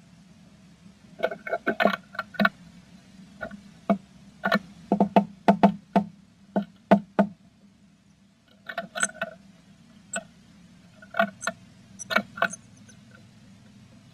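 Blue tits tapping and knocking on the wood inside a nest box: sharp knocks in irregular clusters, a quick run of them about a second in, a denser run from about four to seven seconds, and more after about nine seconds.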